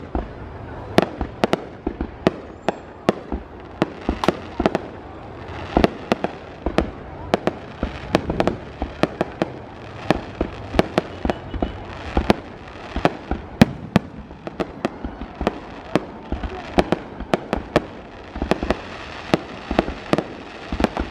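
Fireworks display going off in a rapid, irregular barrage: several sharp bangs a second over a constant background of noise.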